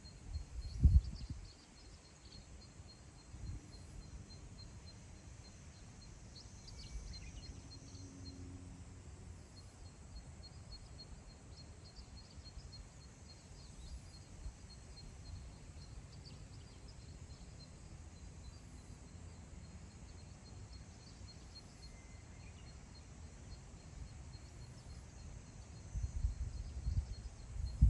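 Wind blowing over open grassland, buffeting the microphone in low rumbling gusts about a second in and again near the end. Under it run a faint, steady high trill and a few brief wild-bird calls.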